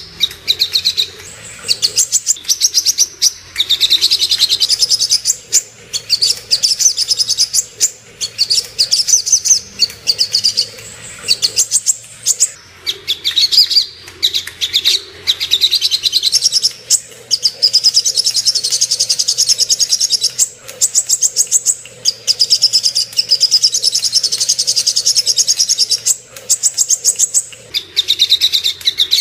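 Brown-throated sunbird (sogok ontong) singing in fast, high-pitched trilled phrases, one after another with short breaks: a lure recording meant to rouse another sunbird into song.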